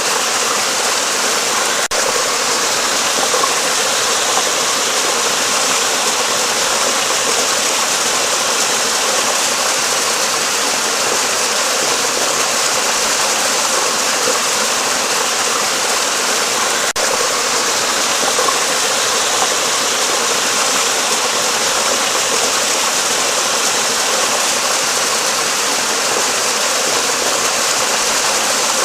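Flowing water rushing steadily, an even hiss with no change in level.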